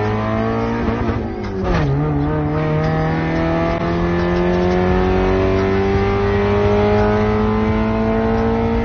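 Car engine accelerating under load. The revs climb, drop abruptly with a gear change just under two seconds in, then rise slowly and steadily again.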